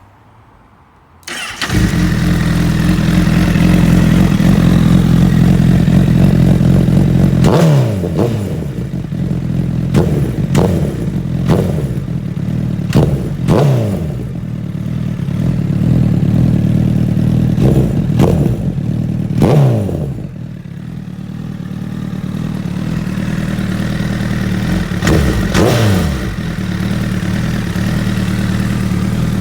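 Honda CBR1000RR's inline-four engine starting about a second in and settling into idle, its exhaust heard. The throttle is then blipped about ten times, each rev rising sharply and falling back to idle.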